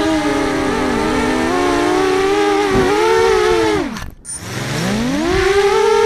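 FPV racing quadcopter's brushless motors and propellers whining at a steady high pitch, wavering with throttle. About four seconds in the pitch swoops down to a brief throttle cut, then climbs back up to full whine.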